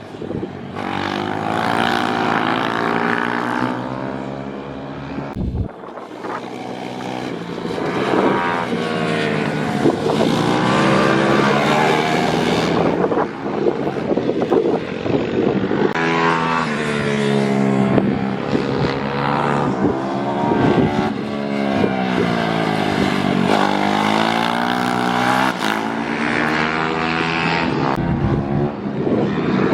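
Pit bikes lapping the track, their engines revving up and down repeatedly through the gears as they accelerate, brake and pass by.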